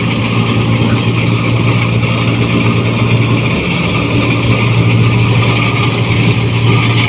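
New Holland 1545 rice combine harvester's diesel engine running steadily with a loud exhaust, a deep even drone with a steady hiss over it.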